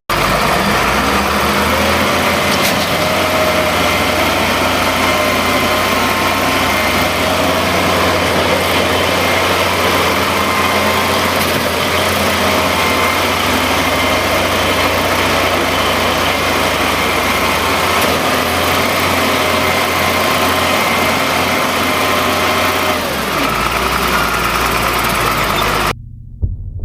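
A large engine running steadily under heavy, even noise with a low hum, cutting off abruptly near the end.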